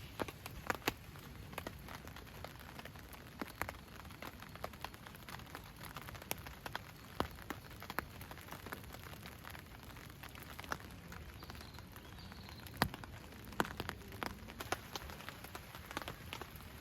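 Rain, with single drops tapping irregularly in sharp separate clicks over a soft, steady hiss.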